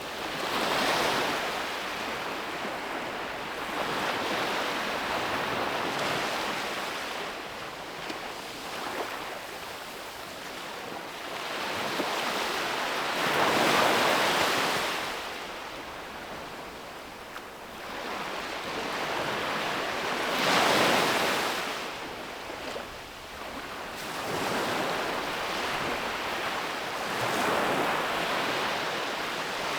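Sea waves breaking and washing up the beach in repeated surges, each swelling and fading over a few seconds. The two biggest breakers come about halfway through and about two-thirds of the way through.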